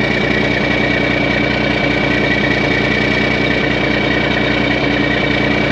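Turbocharged truck engine idling, loud and steady, with its exhaust pipe gone, so it runs essentially straight-piped.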